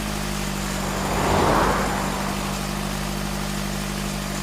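Car engine idling with a steady low hum. A short swell of noise comes about a second and a half in.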